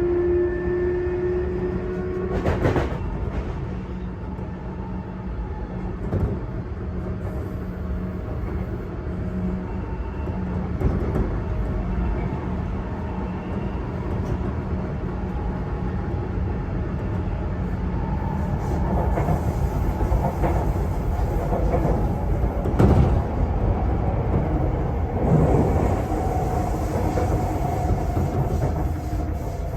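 Running noise heard from inside a Sotetsu 8000 series electric motor car: a steady rolling rumble with occasional sharp wheel knocks over rail joints. A motor whine slowly falls in pitch in the second half as the train slows for the next stop.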